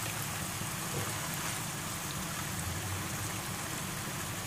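Curry spice paste frying in oil in a pan, a steady sizzle with golden pomfret pieces sitting in it.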